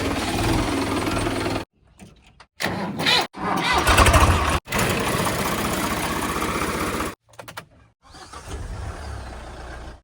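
Heavy diesel machinery engine running, in several short stretches that cut off and start again abruptly. It is quieter near the end.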